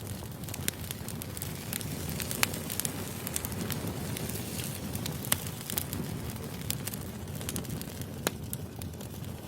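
Wood fire crackling: a steady low rumble of burning logs with many small snaps and a few louder pops.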